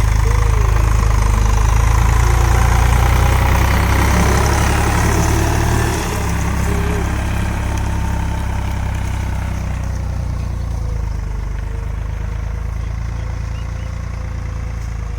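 A farm tractor's diesel engine running steadily with a deep hum. About six seconds in it drops a little in level and then runs on evenly.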